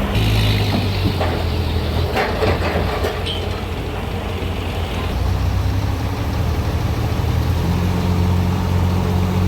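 A sawmill's engine running steadily. Its pitch drops at the start and picks up again near the end, with a few knocks about two to three seconds in.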